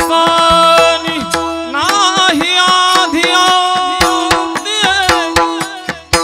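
Marathi Warkari kirtan music: a sung devotional kirtan tune gliding over a steady held drone note, with frequent hand-drum strikes.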